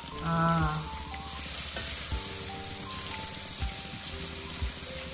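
Fishballs and onion frying in oil and sauce in a hot pan, a steady sizzle, with soft background music playing over it.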